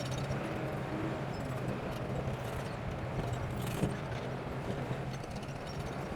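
Heavy earthmoving machine's diesel engine running steadily with a low hum, with light metallic clicking and clinking throughout and one sharper knock just before the four-second mark.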